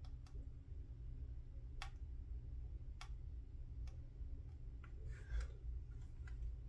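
Light, irregular clicks of small hobby tools against a plastic scale-model part during trimming of foil on it, a second or more apart, with a slightly louder cluster about five seconds in, over a low steady hum.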